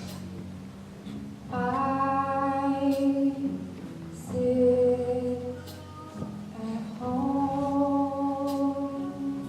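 Singing in long held notes, three sustained phrases, over a quiet steady accompaniment.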